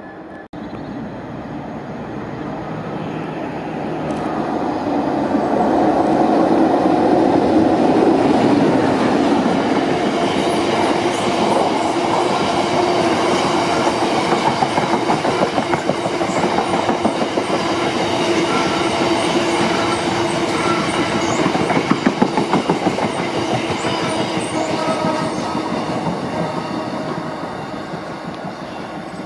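Freight train of loaded bogie tank wagons rolling past close by: a steady heavy rumble with the wheels clattering, loudest in the middle, with a burst of rhythmic clacks later on, easing off near the end as the wagons draw away.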